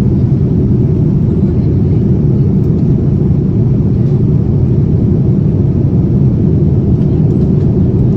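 Steady low rumble of engine and air noise inside a passenger airliner's cabin.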